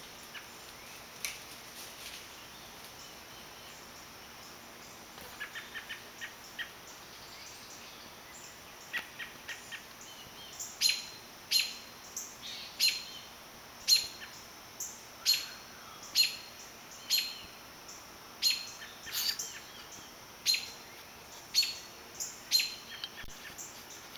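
A bird's sharp, high chip calls, repeated about once a second from about ten seconds in, with a few fainter, quicker ticks a little before.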